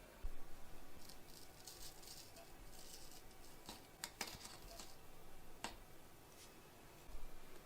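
Faint rustling and handling noises, with a few light clicks about four seconds in and again a little later, and soft low thumps near the start and near the end.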